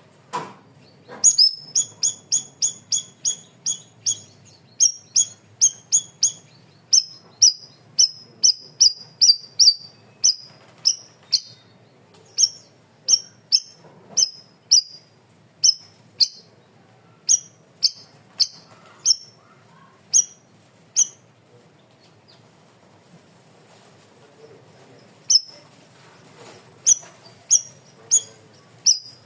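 Cucak rawis (bayeman) singing a run of sharp, clipped, high notes, the rapid 'tembakan' calls. At first they come about three or four a second, then more spaced out, and after a pause of a few seconds they start again near the end.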